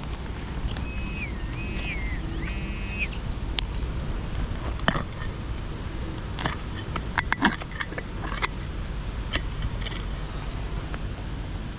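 Wind buffeting the microphone with a steady low rumble. About a second in comes a short run of high, pitched tones that step down, and later a scatter of sharp clicks and knocks.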